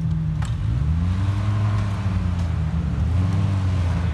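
A small off-road 4x4's engine revving under load as it climbs a steep slope, the pitch rising about a second in, easing off, then rising again near three seconds.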